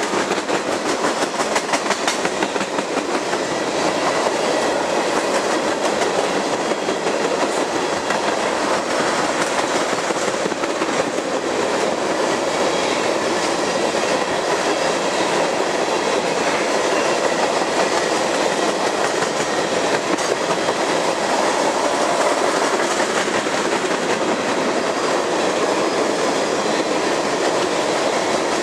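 Freight train of railroad tank cars rolling past close by: a steady rattle and rumble of steel wheels on rail, with a clickety-clack of wheels over rail joints.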